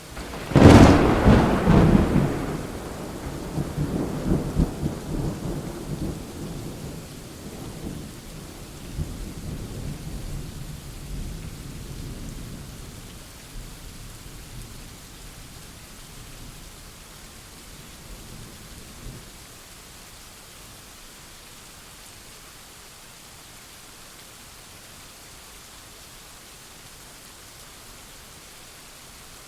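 A sharp thunderclap just under a second in, followed by rolling rumbles that die away over the next twenty seconds or so, over steady rain.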